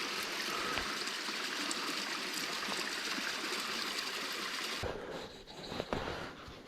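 Spring water running and trickling steadily, as from a mountain spring, stopping abruptly about five seconds in.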